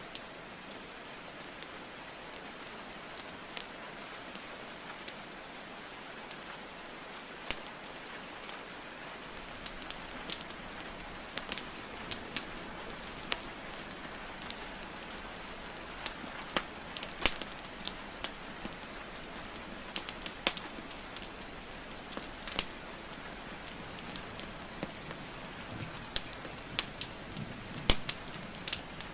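Steady rain hiss with a wood fire crackling and popping over it; the sharp pops come only now and then at first and grow much more frequent about ten seconds in.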